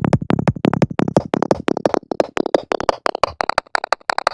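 Dry electronic music track in a breakdown section: a rapid, even run of short, clicky synthesized hits that thins out about halfway through, with a faint high tone sliding down.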